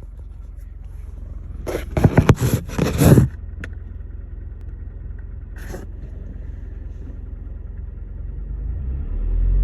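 2011 Scion tC's 2.5-litre four-cylinder engine running with a steady low rumble, the engine the owner says has a knock of unknown cause. Several loud, harsh noisy bursts come about two to three seconds in and once more near six seconds, and the engine grows louder near the end.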